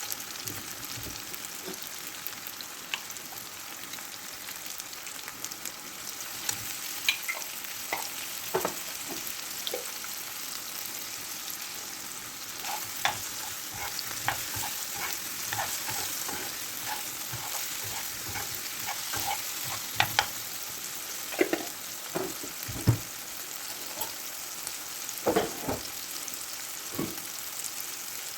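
Food frying in oil in a pan, sizzling steadily, with a utensil now and then knocking and scraping against the pan as it is stirred.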